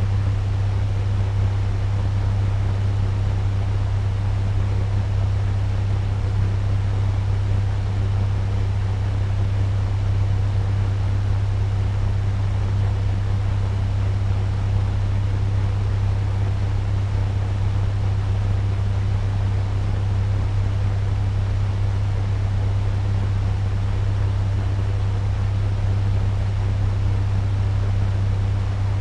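Turbo fan running steadily at medium speed: an unchanging rush of air over a strong low hum.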